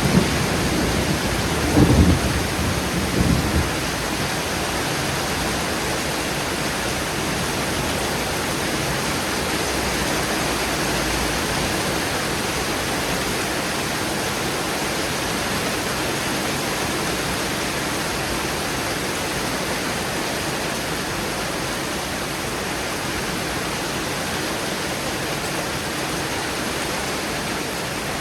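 Thunder rumbling in the first few seconds, loudest about two seconds in, then steady rain hissing down in a thunderstorm downpour.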